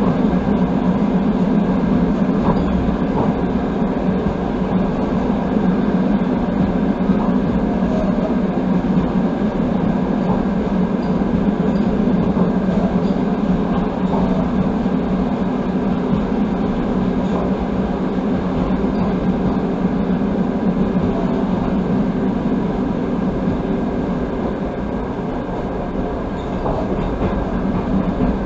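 Passenger train running on the rails, heard from inside the carriage: a steady rolling noise of wheels on track, without pause.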